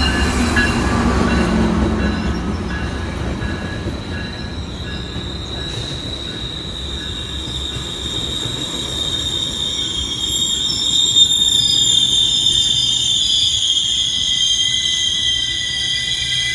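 GO Transit commuter train arriving at a station platform. The diesel locomotive's low rumble passes in the first couple of seconds, then the bilevel coaches roll by with a high, steady squeal of the brakes that grows louder from about ten seconds in as the train slows.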